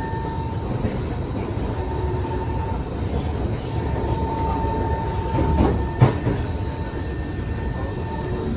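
Kawasaki C151 metro train running between stations, heard from inside the car: a steady rumble of wheels and track with a thin, steady whine. A sharp knock comes about six seconds in.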